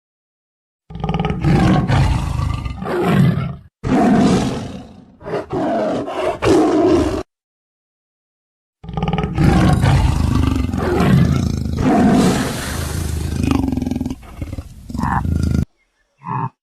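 Loud animal roars, edited together as sound effects: a long run of roaring that stops dead about seven seconds in, then after a second and a half of silence another long run, and one short roar at the very end.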